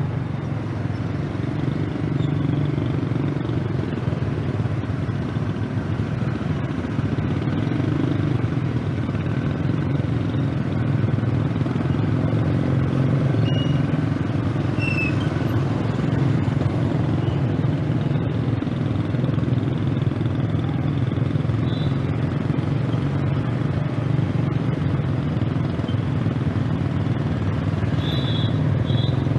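Scooter engine running steadily under way, mixed with road and wind noise, slowly getting a little louder.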